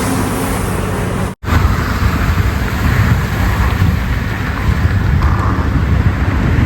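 Strong wind buffeting the microphone: a loud, steady rumbling noise, cut off for an instant about a second and a half in.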